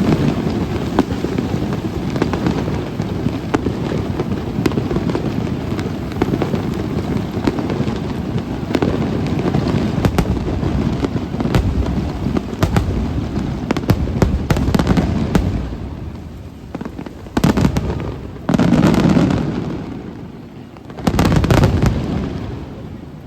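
Fireworks display: a dense barrage of shell bursts and crackle for about fifteen seconds, then a few separate heavy booms near the end before it dies away.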